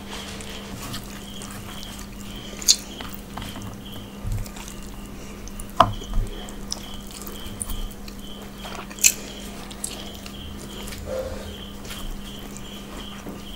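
Close-miked chewing and wet mouth sounds of a person eating rice and curry with her hand, with three sharp clicks about three, six and nine seconds in over a steady low hum.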